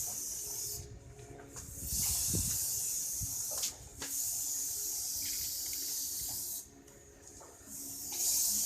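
Paint spraying: hissing bursts of spray lasting one to two and a half seconds, four in all, with short pauses between them.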